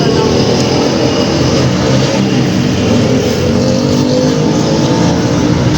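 A motor vehicle engine running steadily and loudly, its pitch rising slowly over the later seconds.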